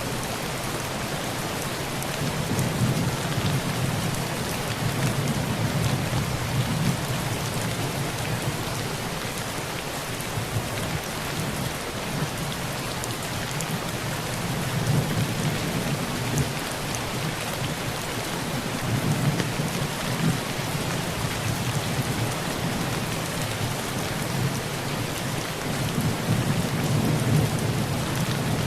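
Heavy rain pattering steadily on a tin roof, with low thunder rumbling that swells and fades several times.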